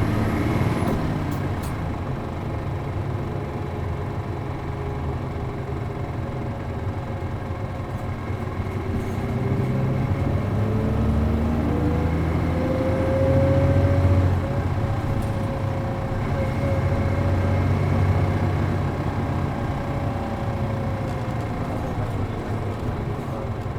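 Inside a city bus under way: its MD92TJ turbo diesel engine and five-speed manual gearbox running, with the engine note climbing and then easing off again, alongside road noise.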